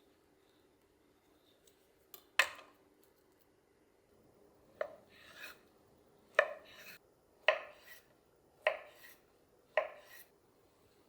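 Kitchen knife cutting down onto a cutting board: six sharp knocks, mostly about a second apart, each followed by a brief scrape.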